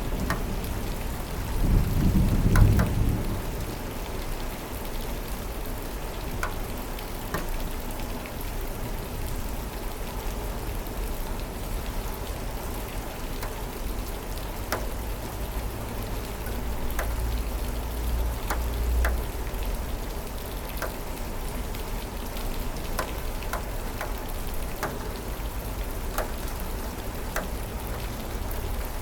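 Steady rain falling, with scattered close drips, and thunder rumbling low about two seconds in and again, more faintly, later on.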